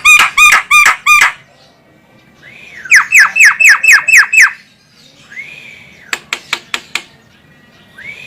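Female Javan myna calling: two rapid bursts of harsh, arched notes, about five a second, then single drawn-out notes. About six seconds in comes a quick run of five sharp clicks.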